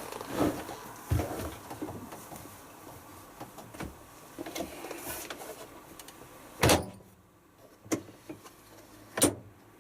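Handling noises at a front-loading washing machine as it is loaded: rustling with scattered clicks and several sharp knocks, the loudest about two-thirds of the way in and again near the end.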